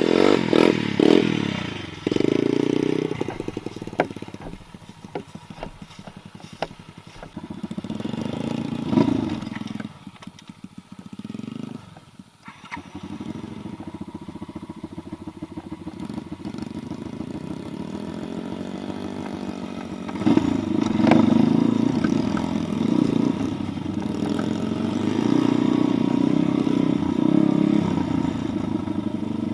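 Small pit bike engine running and being revved, its pitch and loudness rising and falling. It drops away briefly around the middle, then runs steadily and grows louder for the last third.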